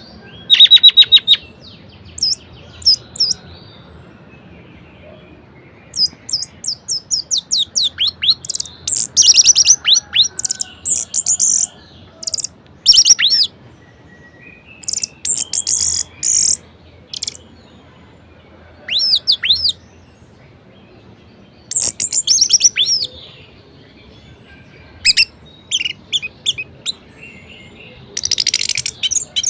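Orange-headed thrush (anis merah) singing a varied song: short phrases of rapid, high notes, one after another with brief pauses between them.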